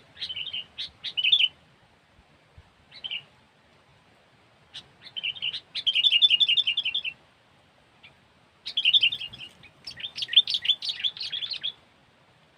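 Sooty-headed bulbul (kutilang) decoy bird calling in bursts of rapid chattering chirps, four phrases split by short pauses, the longest lasting about three seconds near the end.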